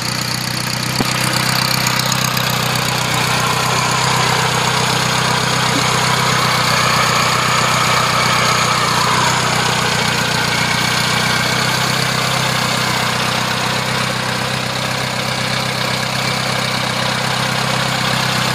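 Air-cooled flat-four engine of a 1977 VW Beetle idling steadily, heard at the open rear engine bay and its single side-exit exhaust.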